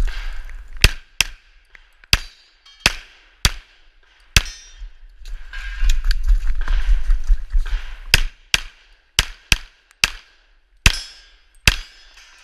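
Handgun shots in two strings: six shots about half a second to a second apart, a pause of about four seconds, then seven more. A low rumbling noise fills the gaps between shots.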